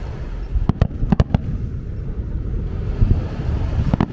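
Fireworks going off: a quick run of about five sharp bangs about a second in and another crack near the end, over a continuous low rumble.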